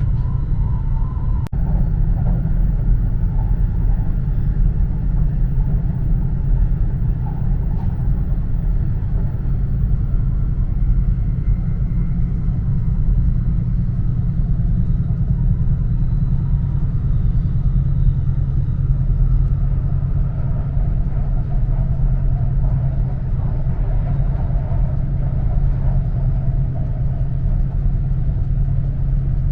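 Steady low rumble of an E4 series Max double-decker Shinkansen running on the line, heard inside the lower-deck passenger cabin, with a faint hum over it and a brief break about a second and a half in.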